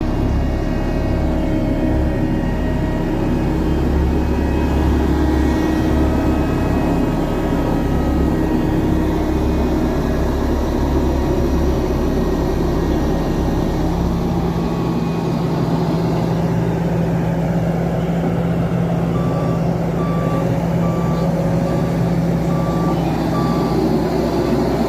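Engine of heavy construction machinery running steadily, its deepest rumble dropping away about halfway through. Near the end a reversing alarm beeps repeatedly, about one beep a second.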